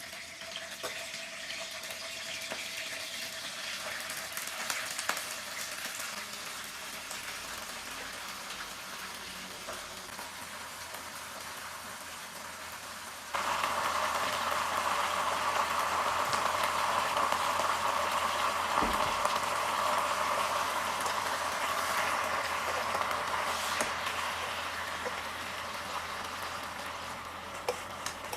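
Chicken frying in a pan, a steady sizzle with scattered crackles. About halfway through the sizzle suddenly becomes louder and stays so.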